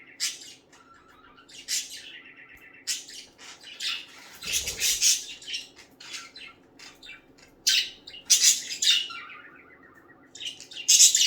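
Pet budgerigars squawking and chattering in repeated sharp, harsh bursts, some calls sliding down in pitch, loudest near the end, as one bird keeps the others away from its spot. A brief low thump comes about halfway through.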